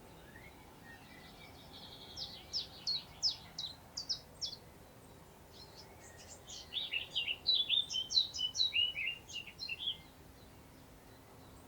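Songbird singing two phrases over a faint steady rustle of wind in long grass. First comes a run of about eight quick notes, each sliding down in pitch. After a short pause comes a faster, more intricate warbling phrase of about four seconds.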